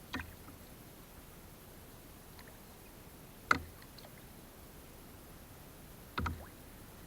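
Three sharp knocks, about three seconds apart, the middle one loudest, over a faint steady hiss.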